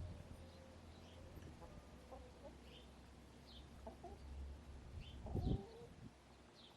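Backyard hens clucking softly now and then, with one louder cluck about five and a half seconds in. Small wild birds chirp high in the background, a short chirp every second or so.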